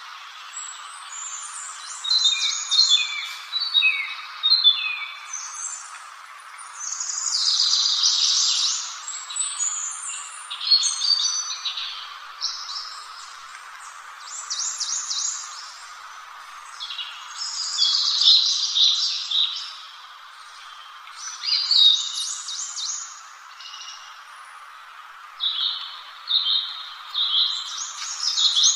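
A songbird singing in rapid, high twittering phrases of a second or two, repeated after short pauses, over a steady background hiss.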